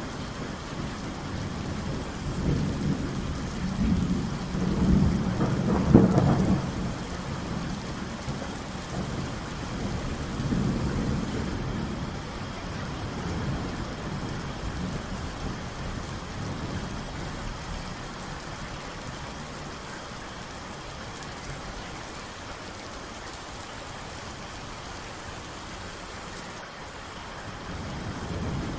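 Steady rain falling, with thunder: a low rumble builds a couple of seconds in and peaks in a sharp clap around six seconds, a second rumble follows near ten seconds, then the rain carries on alone.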